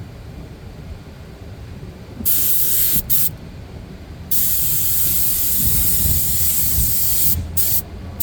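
Paint spray gun spraying the final coat onto a repaired vinyl car seat: a loud hiss starts about two seconds in and comes in bursts as the trigger is pulled and released, with short breaks and a longer run of about three seconds.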